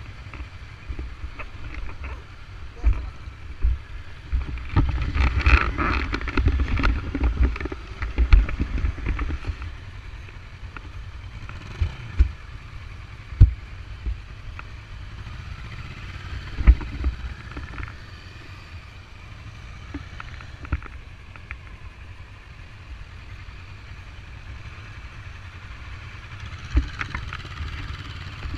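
Kawasaki Versys 650 parallel-twin motorcycle running on the road, a steady low rumble with scattered short knocks. It gets louder and fuller for a few seconds from about five to nine seconds in.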